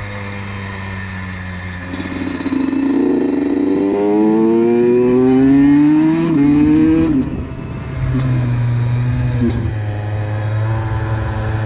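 Honda CR125 two-stroke single-cylinder motorcycle engine pulling under load, its pitch rising steadily for several seconds. The pitch drops sharply about seven seconds in, and the engine then runs on at a lower, steadier pitch.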